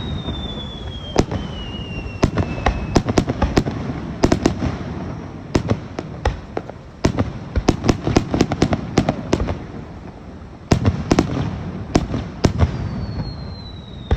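Fireworks display: aerial shells bursting in rapid volleys of many sharp bangs, with brief lulls between clusters. A faint falling whistle sounds in the first few seconds and again near the end.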